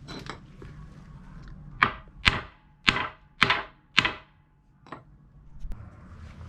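Hammer striking wood: five sharp blows about half a second apart, then a lighter tap about a second later.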